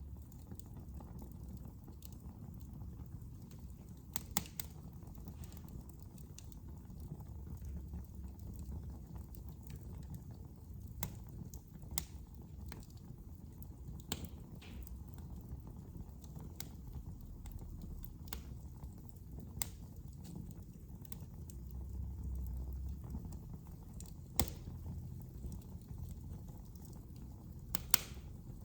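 Wood fire burning in a fireplace: a steady low rumble of flame with sharp, irregular crackles and pops every second or few.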